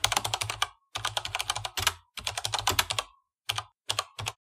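Fast clatter of computer keyboard keys, typed in runs of about a second with short pauses between them, then a few quick separate taps near the end.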